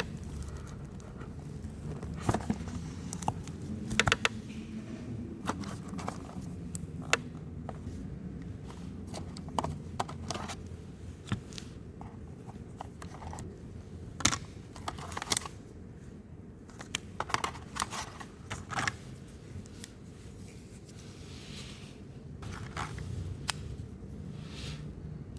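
A smartphone box and its packaging being handled and opened: scattered clicks, short scrapes and crinkles of cardboard and plastic, over a steady low hum.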